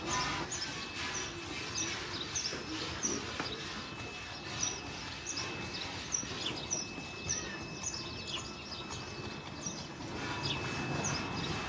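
A small bird chirping over and over: short, high, falling chirps about twice a second. Behind it is a steady low background noise and a faint steady high whine.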